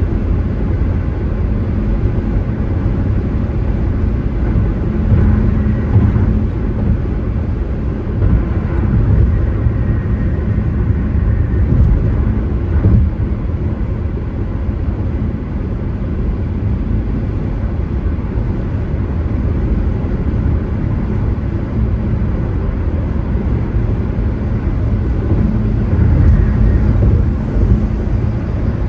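Steady road noise of a car driving, a low rumble of tyres and engine that swells slightly a few times, around six seconds in and again near the end.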